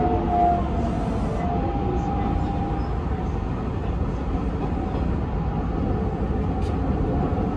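Hanshin 5500 series electric train running along the line, heard from inside the driver's cab: a steady rumble of wheels on rail, with a faint whine in the first few seconds that fades away.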